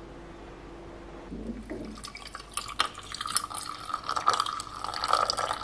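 Water running from a kitchen tap and splashing in a sink, starting about two seconds in and getting louder, after a steady low hum.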